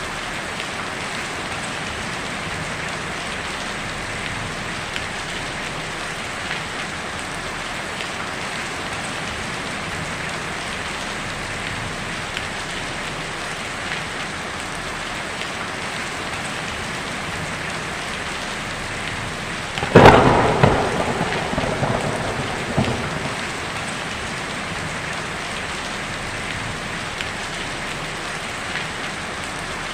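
Heavy rain drumming steadily on a tin roof, with a sharp clap of thunder about two-thirds of the way through that rumbles away over a few seconds.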